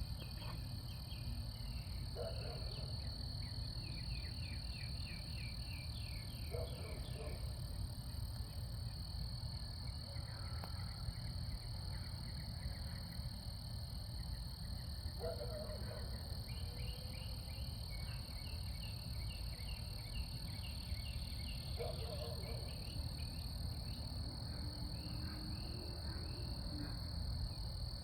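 Night chorus of frogs and insects: frog calls come every few seconds, with rapid pulsed trills, over a steady high-pitched insect drone and a low rumbling background.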